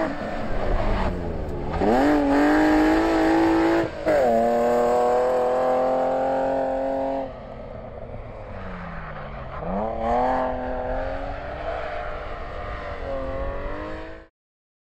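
BMW 325i rally car's straight-six engine pulling hard, its pitch rising through the gears with a sharp drop at an upshift about 4 s in. It dips and climbs again twice, lifting for a corner and accelerating out. It is quieter from about 7 s as the car moves away, and the sound cuts off just before the end.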